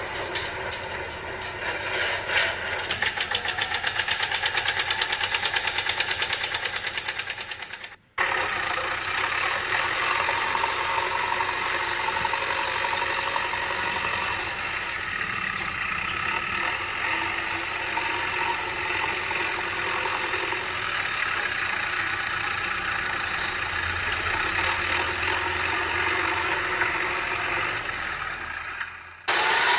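Engine sound with a fast, even knocking beat for about eight seconds, breaking off suddenly, then a steady engine running until a second sudden cut near the end.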